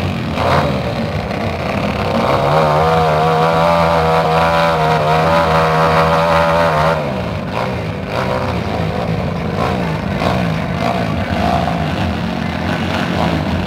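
Drag-racing motorcycle engines running at the start line; one is held at steady high revs for about four seconds, starting about two seconds in, then drops back to a lower, uneven running.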